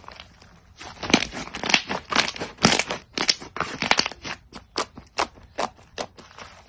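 Crunchy slime being squeezed and pressed, crackling and popping. It starts about a second in with dense clusters of crackles, then turns into separate crackling presses about two or three a second that grow fainter toward the end.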